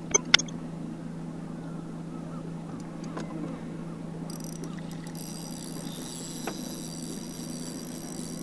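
Bass boat motor running with a steady low hum. A high, thin whine joins in about four seconds in.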